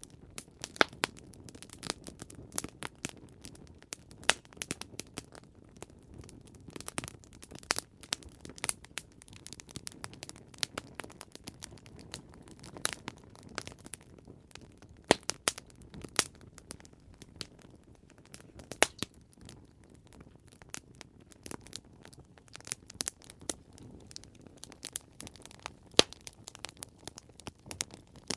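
Wood campfire crackling, with irregular sharp pops and snaps over a low, steady rumble of the flames.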